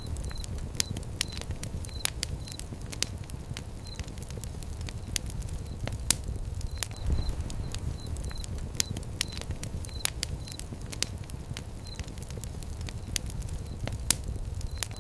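Fire pit fire crackling: irregular sharp pops and snaps over a steady low rumble of flames. Short high chirps repeat in the background.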